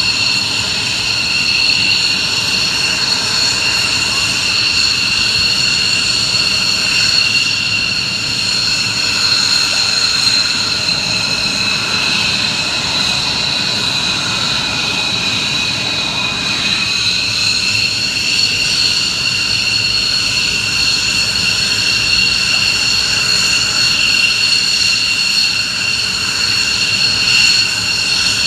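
F-15 fighter's twin jet engines running on the ground: a loud, steady high-pitched whine over a jet rumble, the pitch sagging slightly around the middle and climbing back a couple of seconds later.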